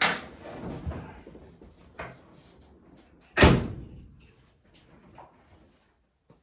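A knock with some rattling, a smaller knock, then about three and a half seconds in the loudest sound, a door slammed shut: the cab door of a 1931 Ford Model A pickup.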